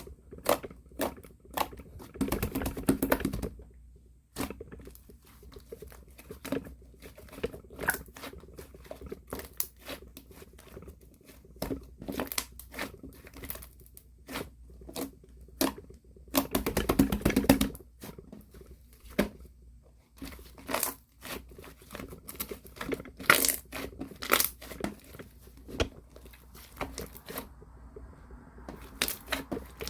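Two-layer slime being squished and stretched by hand, making sticky crackles and pops. There are two longer spells of dense crackling, about two seconds in and just past the middle.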